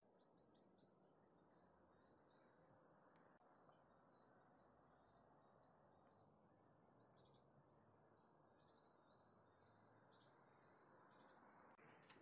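Near silence with faint bird chirps: short high notes, a quick cluster near the start and then single chirps every second or so, over a soft background hiss.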